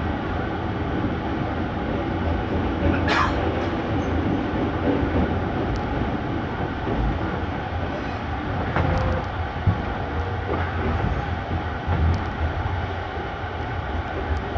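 Passenger train running along the line, a steady rumble of wheels on rails and carriage noise, with a sharp clank about three seconds in and a few clicks later on.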